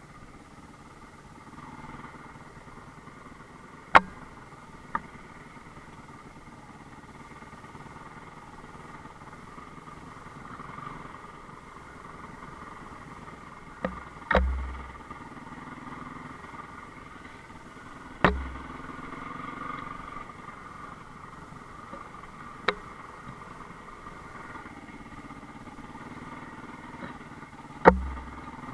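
Enduro motorcycle engine running steadily, broken by about seven sharp knocks spread through the stretch, several of them with a low thump.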